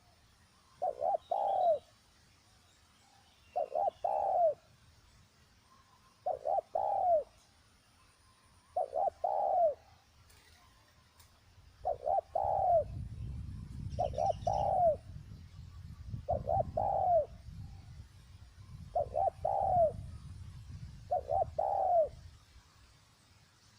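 Spotted dove cooing: about nine short coo phrases of two or three notes each, repeated every two to three seconds. A low rumble runs underneath through the second half.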